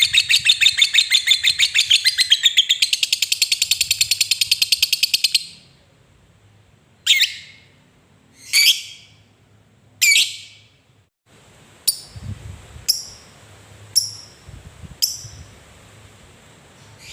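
Lovebird singing its long chattering 'ngekek' trill, a fast run of repeated high notes that stops about five seconds in. It follows with three longer falling calls and then four short chirps about a second apart.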